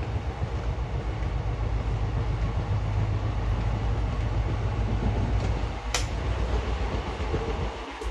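Running noise of an Indian Railways express coach in motion, heard from inside: a steady low rumble and rattle of the carriage on the track, with a single sharp click about six seconds in.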